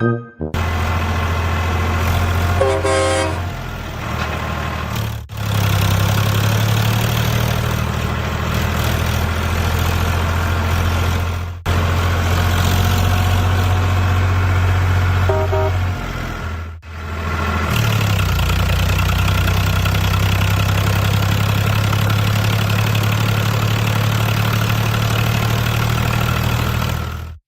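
Truck engine running steadily, heard in several pieces with abrupt changes, plus a short horn toot about three seconds in and a fainter one around fifteen seconds in.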